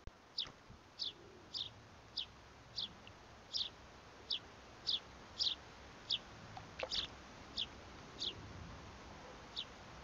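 A small bird calling: a single short, high, falling note repeated about fourteen times, roughly every two-thirds of a second, with a slightly longer gap near the end.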